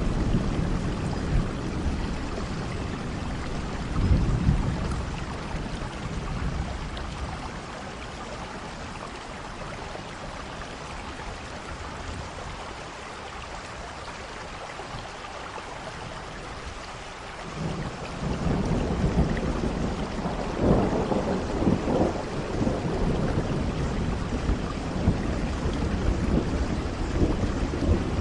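Steady rain with rolling thunder. The rumbling dies down to a lull in the middle, then a new, louder roll of thunder builds about two-thirds of the way through.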